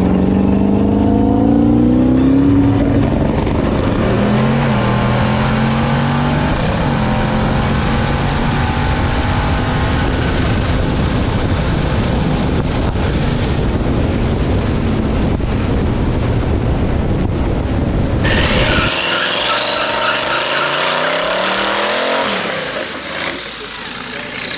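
Twin-turbo 5.3 L LS V8 in a Fox-body Mustang making a full-throttle drag-strip pass, its pitch climbing and dropping back at each gear change. About three-quarters through, the low engine sound drops away abruptly, leaving a high turbo whine that rises and then falls.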